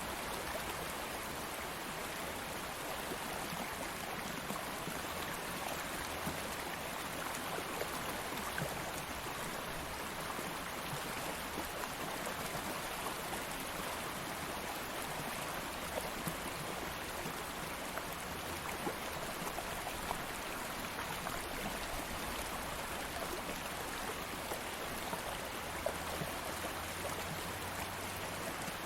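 Stream of water flowing steadily, a continuous rushing and babbling with small splashes scattered through it.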